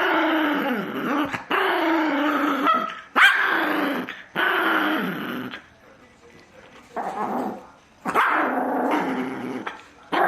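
A small dog growling and snarling in about six long, drawn-out bouts with short breaks between them, quieter for a moment about six seconds in.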